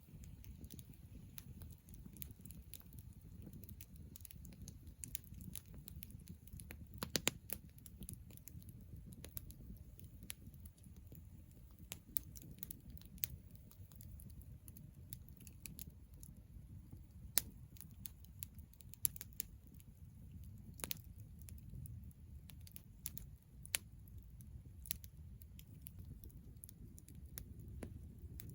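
Wood campfire crackling, with sharp pops at irregular intervals, a few of them much louder, over a low steady rumble.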